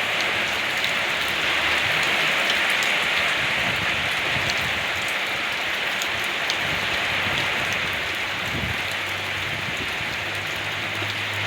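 Steady rain falling: a dense, even hiss with scattered ticks of single drops. A low rumble joins in during the last few seconds.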